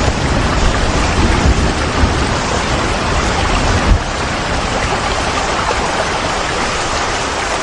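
Steady rain falling, an even hiss with a low rumble underneath that thins out about halfway through.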